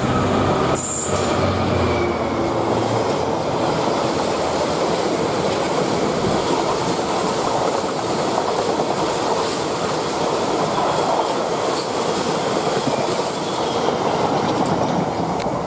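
A train passing close by on the track: a low engine note for the first few seconds, then a steady, loud rush of wheels on rails.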